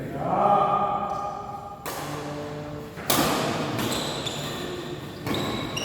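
Badminton rackets striking a shuttlecock in an echoing sports hall: three sharp hits, about a second or two apart, with voices of players and onlookers in the background.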